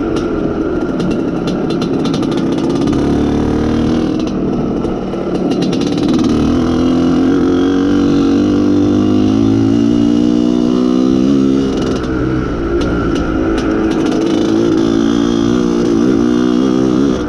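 IZh Planeta Sport motorcycle's single-cylinder two-stroke engine running under load while riding. Its pitch climbs from about six seconds in, holds, and drops back near twelve seconds. The freshly fitted engine is being run in and is not revved hard.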